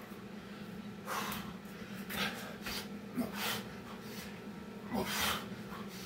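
Heavy, ragged breathing of a man deep into a hard burpee workout: sharp breaths every second or two. A steady low hum runs underneath.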